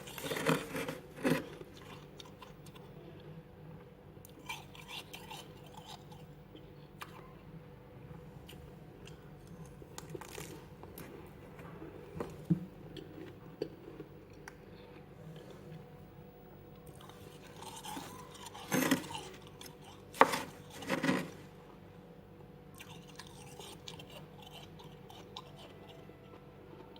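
Freezer frost being bitten and chewed, crunching loudly. There are several loud bites at the start, quieter crackling chews in between, then another cluster of loud crunches about two-thirds of the way in.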